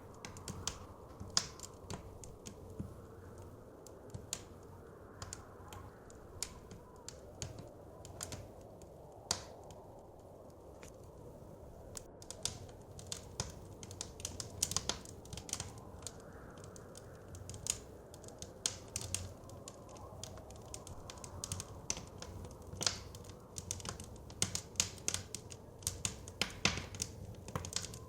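Wood fire crackling in a fireplace: irregular sharp pops and snaps, coming thicker in clusters, over a low steady rush of blizzard wind that slowly swells and fades.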